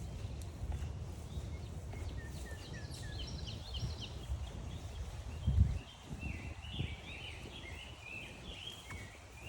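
A songbird singing a run of quick chirping notes, over a steady low rumble of walking along the trail. A single loud thump comes a little past halfway.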